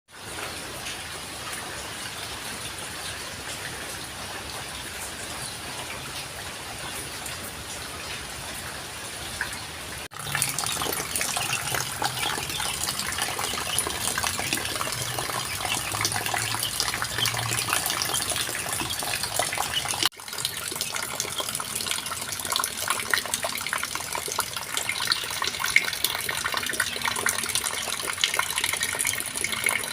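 Rain falling steadily, a dense hiss of drops. About ten seconds in it abruptly becomes louder and busier, with many sharp drop hits, and there is another abrupt break near twenty seconds.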